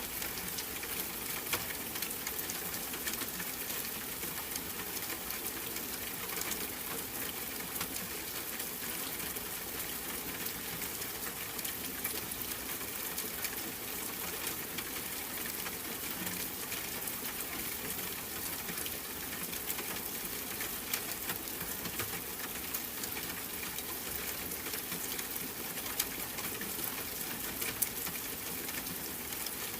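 Steady rain falling, with scattered drops ticking a little louder now and then.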